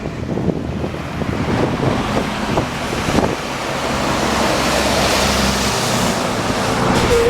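Heavy machinery running, with crackling near the start and a rushing noise that grows louder about halfway through.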